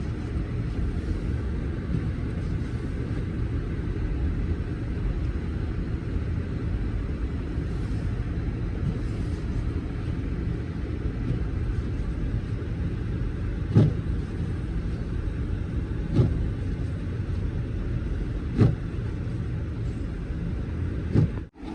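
Steady low rumble of a car driving, with four short knocks spread through the second half.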